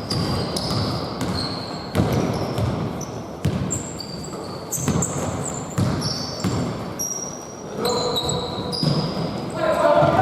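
Basketball game play on an indoor court: the ball bouncing on the floor with dull thuds, many short high-pitched sneaker squeaks, and players' shouts near the end.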